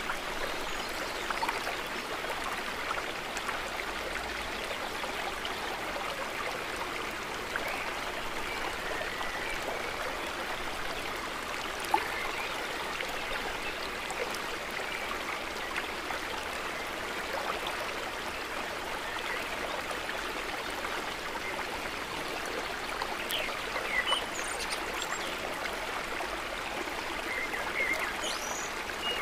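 Steady gentle trickling and babbling of water, full of small splashes and drips. One sharp click comes about twelve seconds in, and a few short high chirps come near the end.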